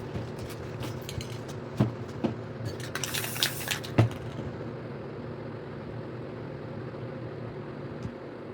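Handling clatter and knocks, then a short hiss of a spray paint can about three seconds in, lasting a second or so, over a steady background hum.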